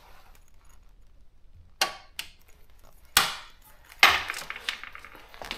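A few hard knocks and clunks, about four in a few seconds, as a Daro 20 typewriter is moved and set down on a hard surface.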